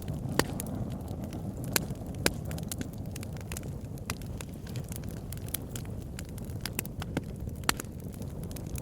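Campfire burning: a steady low rumble of flames with irregular sharp crackles and pops, a few louder snaps among them.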